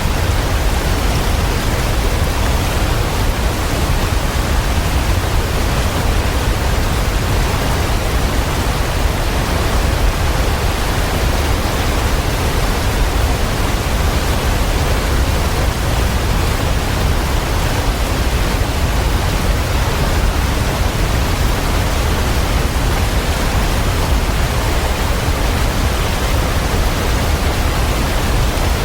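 Waterfall: a steady, unbroken rush of falling water with a deep low rumble beneath it.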